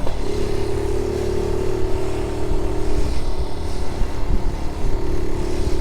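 1976 Honda Z50J1 Monkey bike's 49cc four-stroke single engine running at a steady speed while under way, with wind rumble on the microphone.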